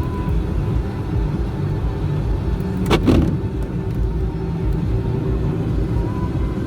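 Steady road and engine rumble heard from inside a car driving on a snowy mountain road. About three seconds in there is a brief louder rush.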